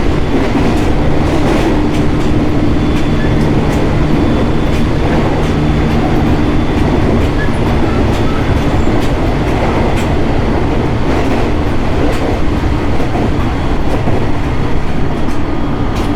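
Running sound of a JR East 701 series 1000 subseries electric train, heard from inside the car while it travels at speed. A steady rumble of wheels on rail is broken by irregular clicks over rail joints, and a low steady hum fades out about seven seconds in.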